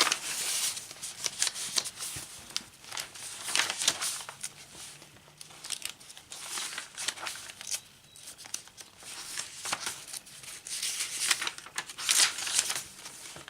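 Paper pages, tags and inserts of a handmade journal being turned and handled, rustling and crinkling in irregular bursts.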